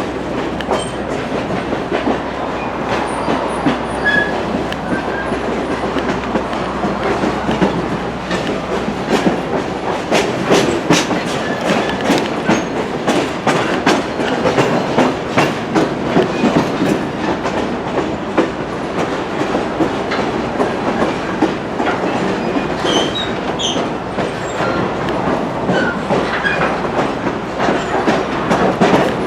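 Railroad cars rolling along the track with a steady rumble, their wheels clicking over the rail joints.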